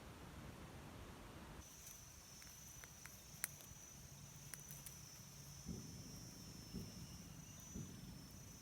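A faint, steady, high-pitched insect buzz sets in about a second and a half in and holds without a break. Two or three sharp clicks and a few soft low thuds come during it.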